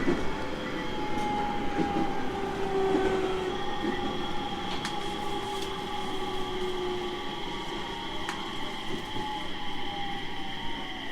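701 series 1000 subseries electric train running on the rails, its traction motors whining in several tones that slowly fall in pitch as the train slows, over steady wheel-and-rail noise with a few light clicks.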